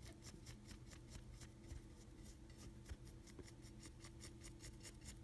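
Faint, quick scratching of a paintbrush dry-brushing across a rough cast hydrocal plaster wall, about five strokes a second.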